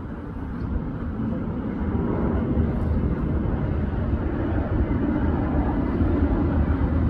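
Airbus A321neo's twin turbofan engines rumbling during a low pass, growing steadily louder as the airliner approaches.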